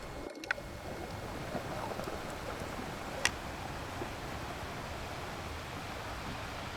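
Ocean waves washing on a beach: a steady surf wash, with two sharp clicks, about half a second and three seconds in.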